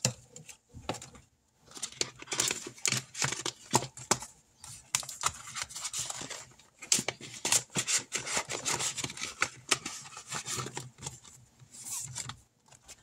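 Paper money and envelopes being handled by hand: irregular rustling and crinkling with light clicks and taps.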